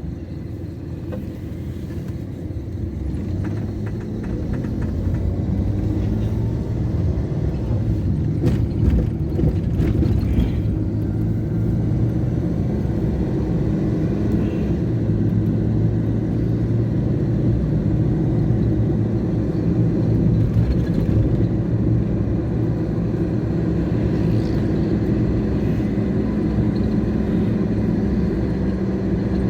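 Strong wind buffeting the microphone in a low rumble, with road traffic beneath it. The rumble swells over the first few seconds, then holds steady.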